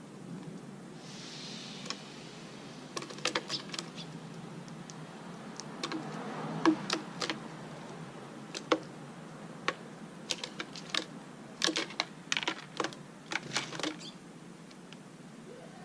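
Irregular sharp clicks and taps, some in quick clusters of two or three.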